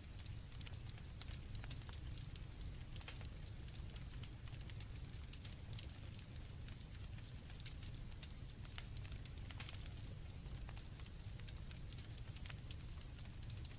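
Campfire crackling with irregular sharp pops over a low rumble of the burning wood, with crickets chirping steadily in the background.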